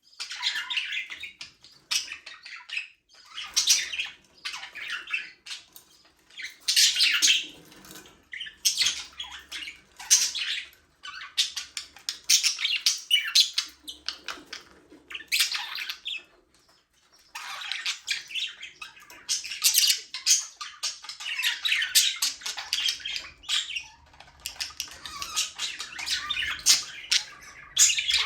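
A flock of budgerigars chattering and squawking, with bursts of rapid warbling calls that come and go every second or two and a brief pause in the middle.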